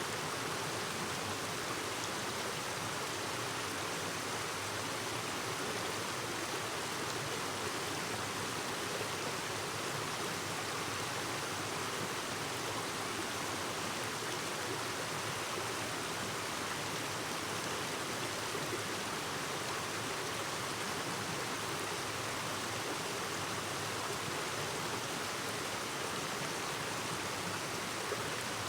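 A clear mountain stream babbling and rushing over rocks, an even, unbroken water sound.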